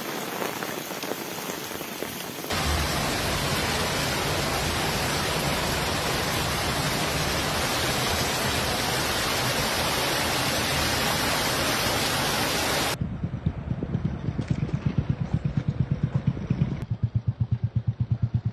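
Heavy rain pouring as a steady, dense hiss, heard across several abruptly cut clips; it gets louder about two seconds in. In the last few seconds a fast, regular pulsing of several beats a second runs under the rain.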